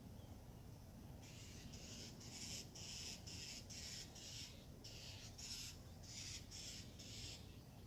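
A bird giving a harsh, rasping call over and over, about a dozen times at roughly two a second, starting about a second in.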